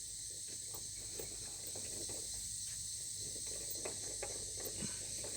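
Steady high chirring of insects in the background, with a few faint light clicks scattered through.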